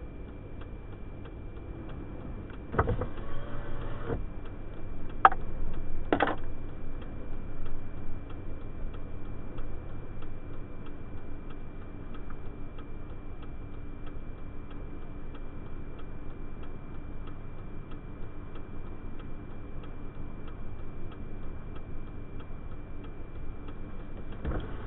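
A vehicle's turn-signal flasher ticking steadily inside the truck cabin over a low, steady rumble. About three seconds in there is a brief rustle, followed by two sharp clicks about a second apart.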